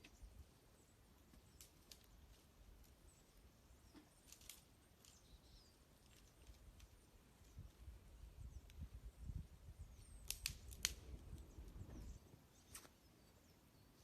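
Wood fire crackling with sparse sharp pops, a quick cluster of louder pops a little after ten seconds in, and a low rumble through the second half. Faint small-bird chirps sound now and then.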